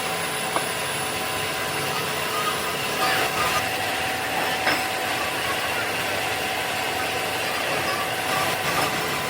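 Steady machinery noise on a factory floor: a continuous hum with a few thin steady whines, and a couple of short metallic clicks or knocks.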